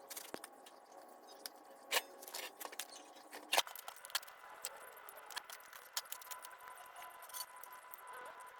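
Irregular clicks, taps and light knocks of small metal parts and tools being handled, a few sharper knocks in the first half, over a faint steady tone.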